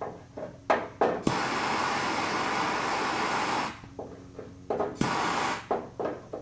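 A gas torch hissing in a steady rush for about two and a half seconds, starting and stopping abruptly, then again briefly near the end, with clicks and knocks of tools on metal around it.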